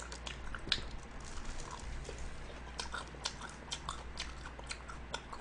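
Close-up chewing of a mouthful of lettuce salad: irregular crisp crunches and mouth clicks.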